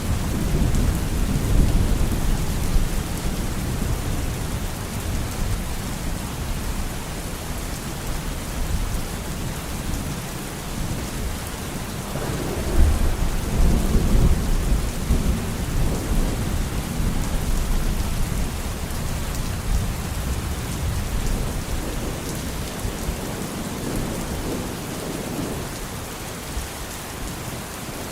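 Steady heavy rain with rolling thunder; deep rumbles swell near the start and again about halfway through, then ease.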